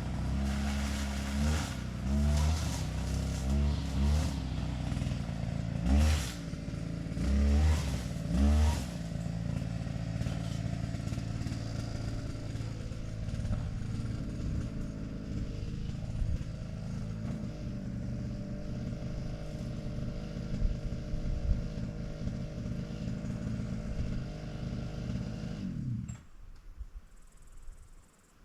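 An engine revving up and down several times, then running steadily, and stopping about two seconds before the end.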